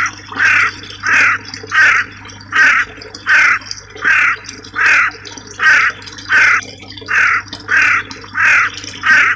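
A bird giving a harsh, raspy call over and over at an even pace, about three calls every two seconds.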